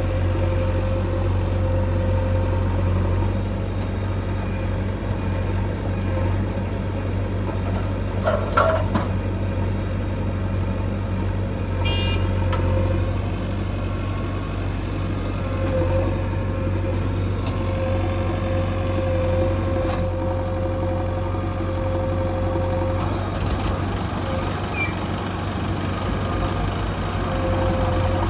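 Heavy diesel engines of a JCB 3DX backhoe loader and a Mahindra Arjun 555 tractor running steadily at work, with a couple of short knocks about nine and twelve seconds in.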